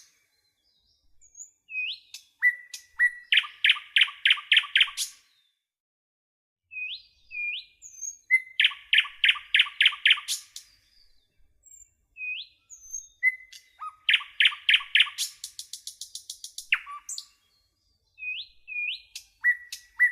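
A songbird singing the same phrase over and over, about every five seconds. Each phrase opens with short rising notes and a held whistle, then goes into a fast run of ringing notes ending in a higher trill.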